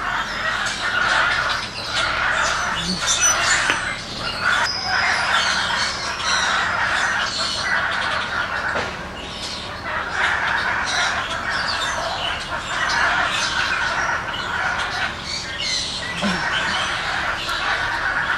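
A chorus of shrill animal squawks and screeches, many calls overlapping without a break.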